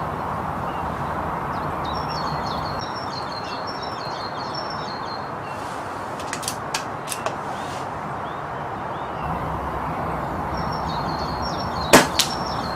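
Birds chirping over a steady outdoor hiss, with a few light clicks midway; near the end, a single sharp crack as the Brocock Concept air rifle fires a pellet, followed by a fainter click.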